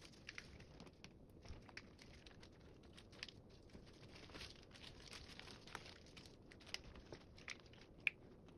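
Faint, scattered crinkling and small clicks, with one sharper click near the end.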